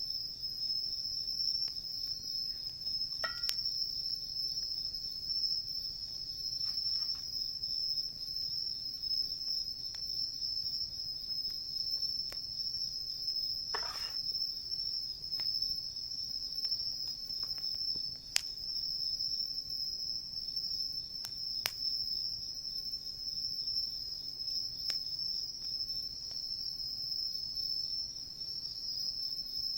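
Insects singing in a continuous high trill, with a few sharp crackles and pops from the wood campfire.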